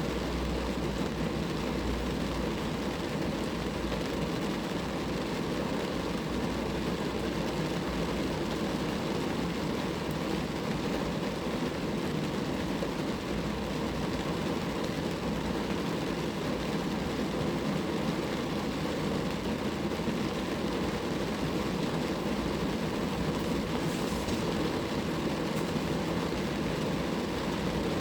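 Steady rain falling on a car, a constant even patter-like hiss with most of its weight low and muffled.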